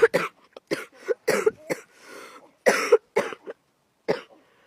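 A person coughing repeatedly: about a dozen short, sharp coughs in quick bursts, the last about four seconds in.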